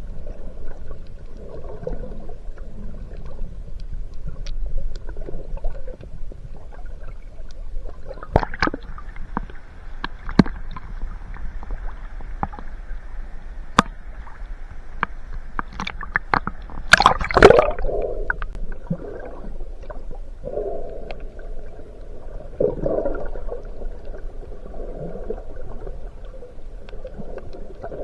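Underwater sound: gurgling bubbles and water movement, with scattered sharp clicks and knocks and a louder cluster of them about two-thirds of the way through.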